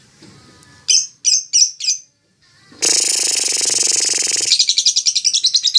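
Lovebird singing: four sharp high chirps, then a harsh buzzy trill lasting about a second and a half, then a fast run of chirps at about eight a second.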